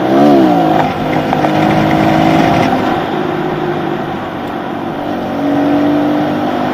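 Kawasaki KLX110 pit bike's small single-cylinder four-stroke engine revving up and dropping back in the first second, then running at a steady throttle while riding, picking up again for a moment near the end.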